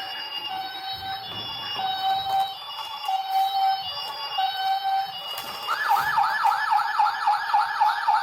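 An emergency-vehicle siren sounds a two-note hi-lo pattern, then switches about six seconds in to a fast rising-and-falling yelp.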